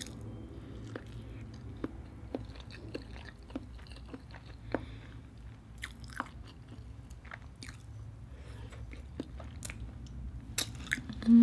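Close-up mouth sounds of eating a butter-coated hard-boiled egg: soft wet chewing with many small scattered clicks and smacks, and lip smacks as fingers are licked near the end.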